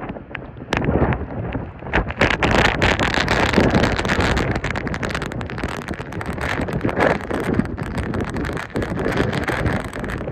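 Hurricane-force wind buffeting the microphone in heavy gusts, with many sharp crackles, growing stronger about two seconds in.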